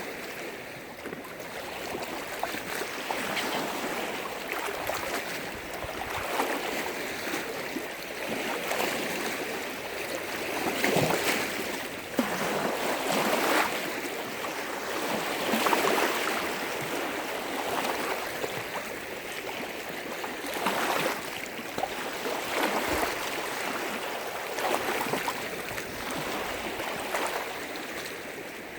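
Waves on a large freshwater lake washing and breaking against the shore, one splash after another, a few seconds apart.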